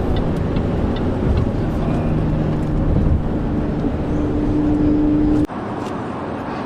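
Car driving on the road: steady engine drone and road rumble, heard from inside the cabin. About five and a half seconds in, the sound cuts abruptly to a thinner, quieter road noise.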